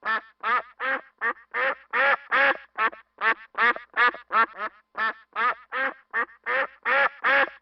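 A duck quacking over and over in a steady run of short nasal quacks, about three a second.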